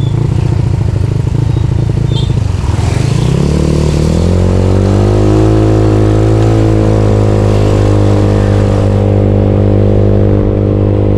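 Bored-up Yamaha Mio scooter's single-cylinder engine pulling away. It runs at low revs for the first few seconds, rises smoothly from about three seconds in, then holds steady at cruising speed.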